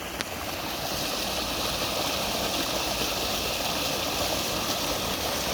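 Small creek waterfall rushing steadily, running hard with a heavy flow like its spring runoff.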